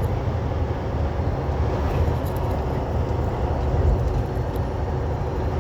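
Steady low rumble inside a semi truck's cab at road speed: engine, tyre and wind noise, with no distinct events.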